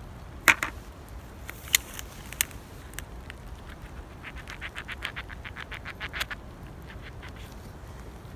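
A few sharp snaps, then a rapid, even rattle of about ten clicks a second lasting about two seconds, most likely a bird's chattering call.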